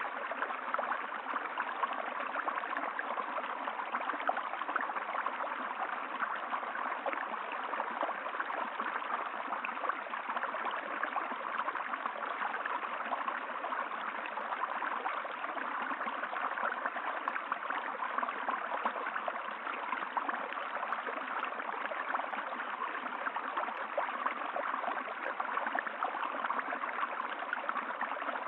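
Stream water running steadily, an even, unbroken wash with no change.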